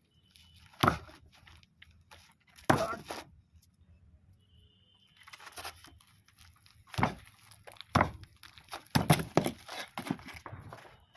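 A series of sharp thumps: two single hard blows about one and three seconds in, then a quicker, irregular run of thumps from about five seconds to near the end.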